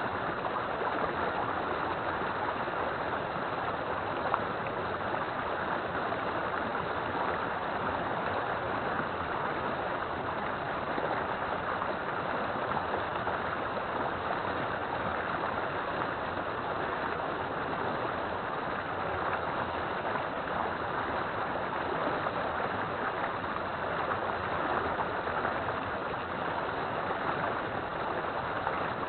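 River water flowing steadily, a continuous even rushing.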